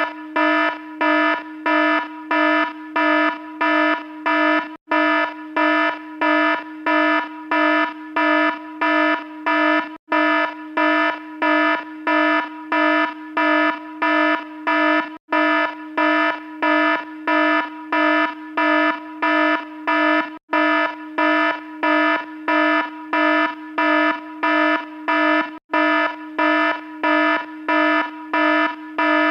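Electronic alarm sounding a buzzy tone that pulses steadily about twice a second, with a brief break roughly every five seconds.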